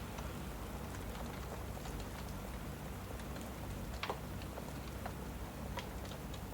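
Steady rain with a crackling fireplace: a constant hiss and low rumble under scattered sharp pops, the loudest about four seconds in.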